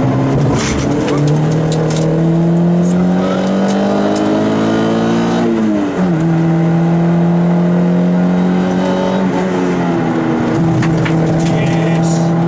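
Peugeot 106 rally car's engine heard from inside the cabin, accelerating hard: its pitch rises for about five seconds and drops sharply at an upshift about six seconds in. It then pulls on at a nearly steady pitch, with a brief dip near ten seconds.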